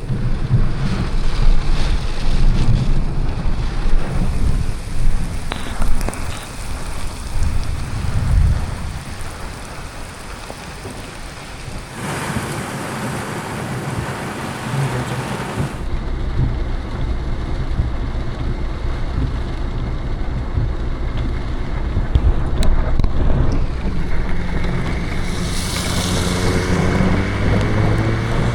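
Thunderstorm rain on a car, with thunder rumbling in loud swells over the first several seconds. A burst of heavier hiss comes about halfway through, then a steadier low drone.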